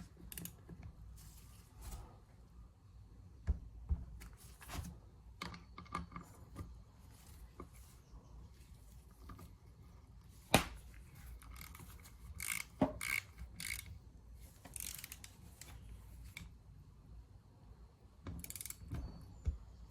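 Torque wrench ratcheting in short runs with scattered sharp clicks, tightening the cylinder head bolts of a GX200-type Honda clone engine to 110 inch-pounds.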